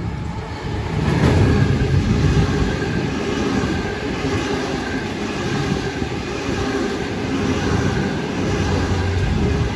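A Waratah double-deck electric train passing close by at speed, a steady rumble of wheels on rail that swells loud about a second in as the cars reach the microphone and carries on as they run past.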